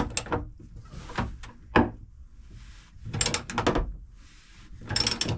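Hand tools clicking and scraping on metal as a seized, corroded engine-mount stud is worked: a few separate knocks, then two quick runs of ratcheting clicks with a metallic ring, about three seconds in and near the end.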